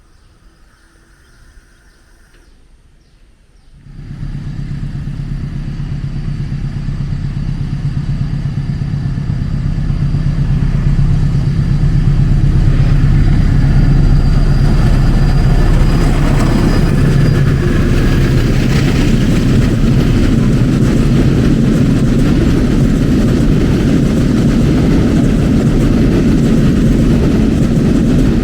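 Diesel locomotive engine running as a train approaches, starting abruptly about four seconds in after a few seconds of quiet, growing louder over the next several seconds and then holding loud and steady.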